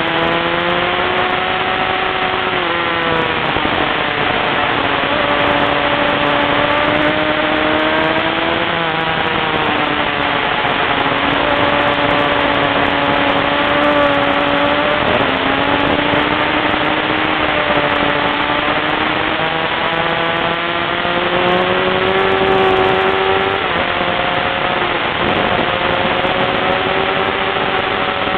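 Onboard sound of a sportbike at track speed: the engine note climbs under throttle and drops back several times through shifts and corners, over heavy wind noise on the microphone.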